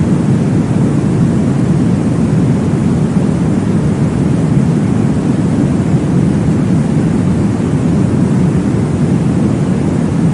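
Steady, deep whooshing noise made as a baby sleep aid, weighted toward the low end, with no beat and no change in level.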